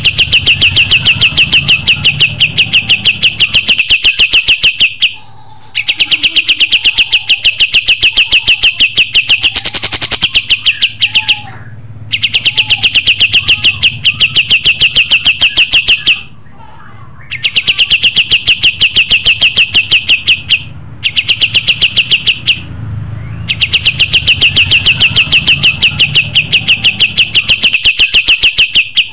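Kapas tembak songbird singing: long, very fast, even trills on a high pitch, each lasting about four to five seconds with short breaks between, repeated about five times.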